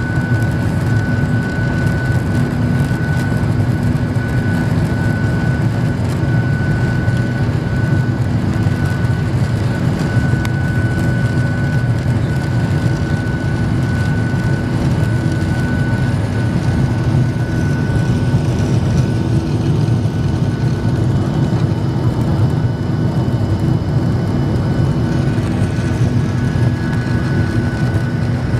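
Boeing 737-800's CFM56-7B jet engines at takeoff thrust: a loud, steady roar with a thin steady whine on top.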